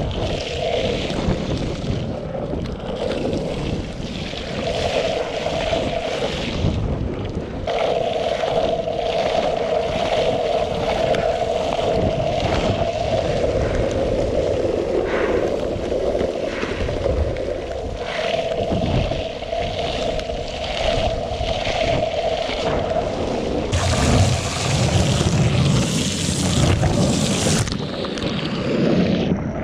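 Longboard wheels rolling on wet pavement, a steady humming roar, with wind rushing over the microphone. Near the end a louder rush of wind noise lasts a few seconds.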